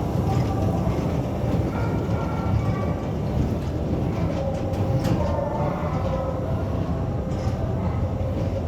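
Passenger train running, a steady low rumble of the wheels on the rails with faint steady tones above it, and one sharp click about five seconds in.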